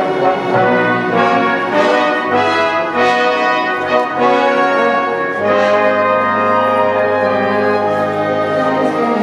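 Orchestra playing a Christmas arrangement, with the brass section to the fore in sustained chords.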